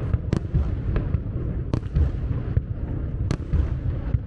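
Aerial fireworks going off: a continuous run of low booms, with three sharp cracks standing out about a second and a half apart.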